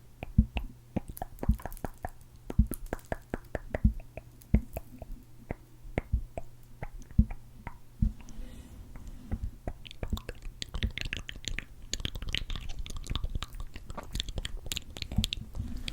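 Close-up sticky clicks of a gloopy, very sticky clear sparkly lip gloss being spread, a few separate clicks a second at first, then a denser crackling in the last few seconds.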